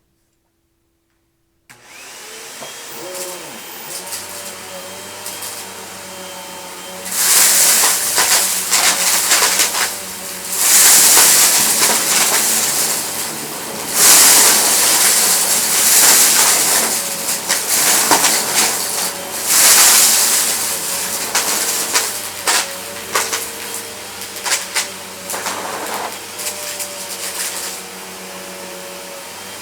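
Vacuum cleaner switching on about two seconds in and running, then from about seven seconds in repeated loud surges of rushing air full of rattling clicks as it sucks up hard debris.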